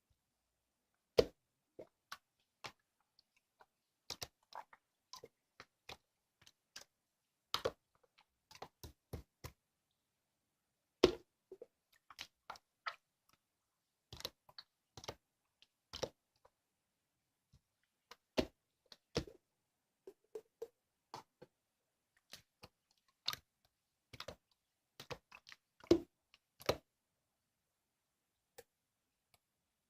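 Slime being squeezed and poked by hand, making irregular sharp clicks and little wet pops with silence between.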